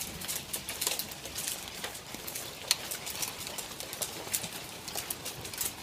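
Hail falling on a tin roof: a dense, irregular stream of sharp ticks and knocks.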